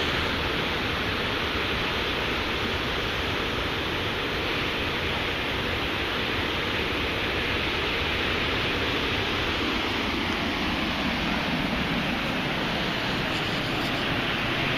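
Ocean surf washing continuously onto a beach, a steady rushing wash of breaking waves with no distinct single crash.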